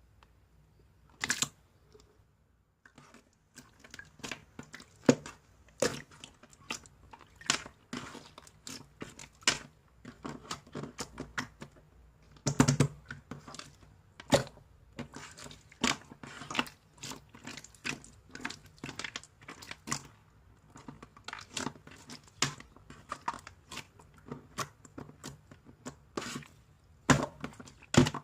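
Clear purple slime mixed with crunchy add-in pieces being squeezed and poked, giving irregular crisp crackles and pops, a few a second.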